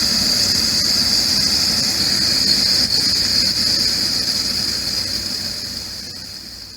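A steady, high-pitched drone over a low rumble, with a few faint clicks. It fades out over the last few seconds.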